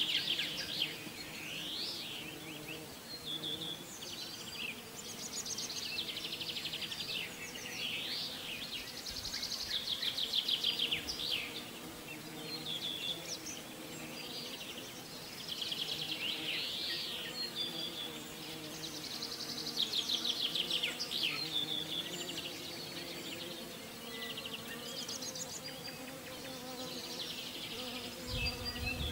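Songbirds singing over and over, in high phrases of fast buzzy trills and rising-and-falling whistles, with a steady low hum underneath. A soft low thump comes near the end.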